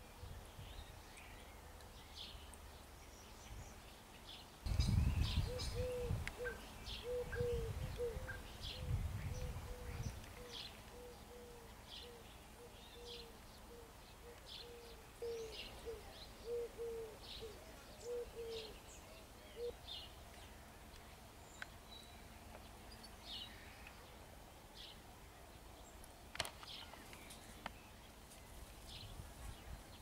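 Birds calling outdoors with short, high chirps scattered throughout, and a run of low, evenly repeated notes at about two a second from about five to twenty seconds in. A low rumble from about five to ten seconds in is the loudest sound.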